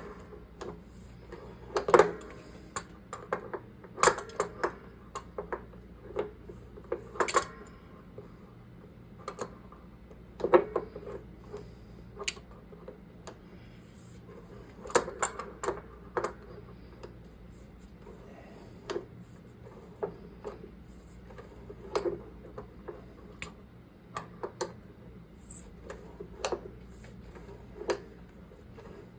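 Irregular metallic clinks, taps and knocks of hand tools and pipe fittings being handled during plumbing work, a few of them sharp and loud, over a faint steady low hum.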